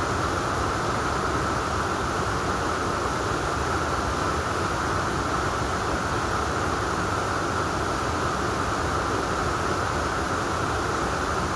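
Steady rushing water of a mountain valley stream: an even hiss with no breaks or changes.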